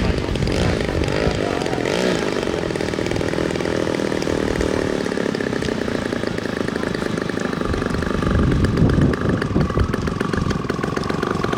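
Radio-controlled model airplane engine running at high revs in flight, its pitch rising and falling slightly as the plane manoeuvres.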